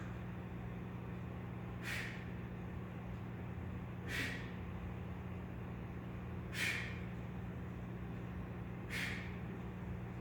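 A man's forceful exhalations, one about every two and a half seconds, four in all, as he works through repetitions of weighted pull-ups. A steady low hum runs underneath.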